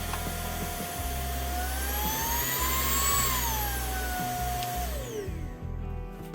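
Klarpul KL-003 cordless stick vacuum switched on, its motor running with an airflow rush and a whine that climbs in pitch and then falls back. It winds down with a falling whine about five seconds in as it is switched off.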